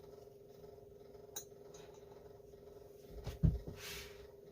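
Metal parts clinking on a workbench as a chainsaw flywheel is fitted back onto the crankshaft: a light click about a second and a half in, then a heavier clunk about three and a half seconds in, followed by a brief hiss, over a steady low hum.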